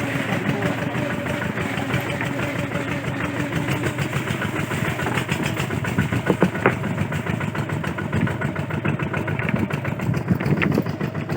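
Kubota RT140 single-cylinder diesel engine running steadily with rapid even firing, with a few sharp clattering knocks in the middle and near the end.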